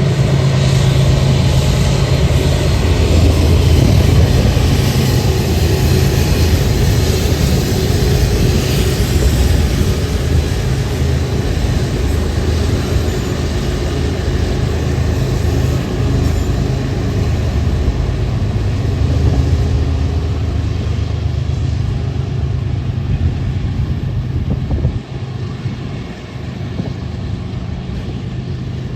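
BNSF freight train's diesel locomotives running past with a steady low engine drone and broad wind-like noise, easing off somewhat about 25 seconds in.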